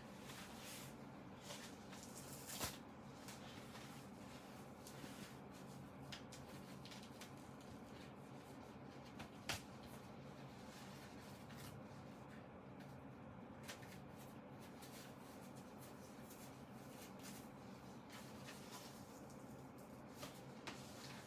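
Faint handling noises, rustling with a few sharp clicks, the loudest about two and a half seconds in and again near ten seconds, over a steady low hum.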